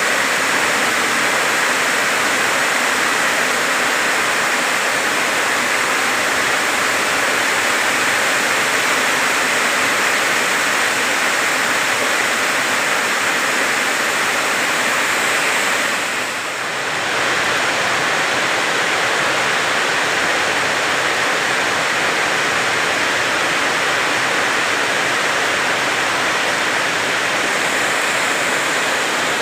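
Heavy rain pouring steadily, a dense, even hiss, with a brief dip in loudness a little past halfway.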